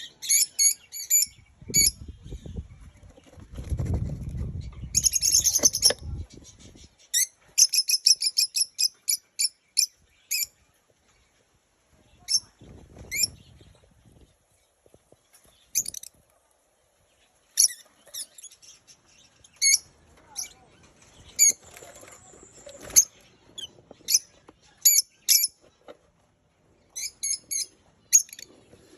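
Lovebirds chirping: short, sharp, high-pitched chirps in quick runs, with pauses between. In the first six seconds a low rustling runs under the calls, ending in a brief noisy flutter.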